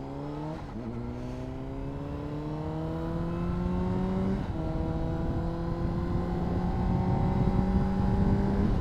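Honda CBR600RR's inline-four engine pulling under acceleration, its pitch climbing steadily with two upshifts, about half a second in and about four and a half seconds in, where the pitch drops and starts climbing again.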